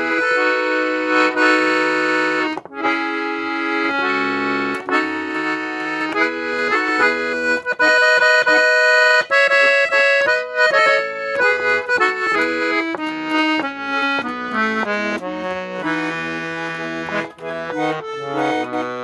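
Parrot-brand accordion playing a melody over sustained chords, the notes changing quickly through the middle.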